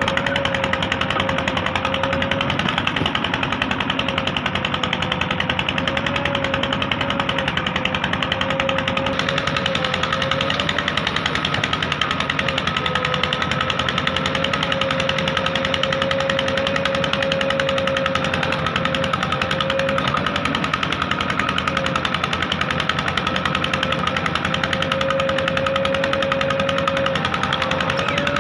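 JCB 3DX backhoe loader's diesel engine running steadily under work, with a fast, even clatter and a steady whine that wavers slightly in pitch.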